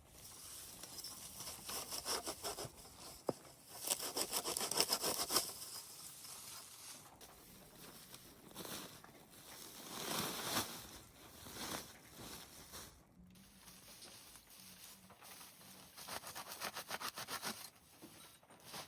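Quick rasping rub or scrape strokes, coming in three bursts with quieter pauses between.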